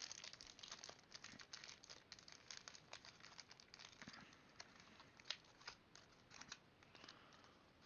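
Faint crinkling and scattered light clicks of packaging and small adhesive mouse grip skins being handled.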